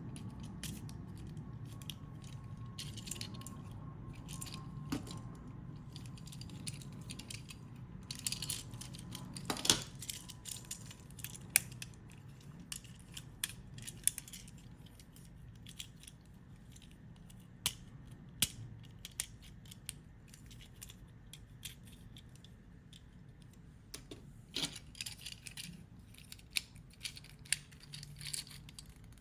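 Irregular sharp clicks and taps of small plastic toy parts being handled, with a faint low hum underneath.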